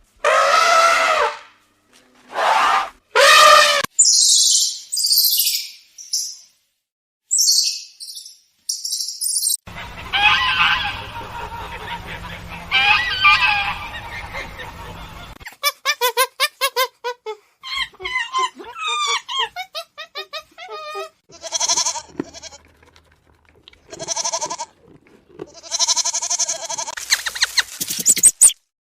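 A string of different farm animals' calls, one short clip after another. It opens with three long pitched calls and high squeaks, then comes a stretch of calls over a steady low hum, then quick repeated chirps and more pitched calls.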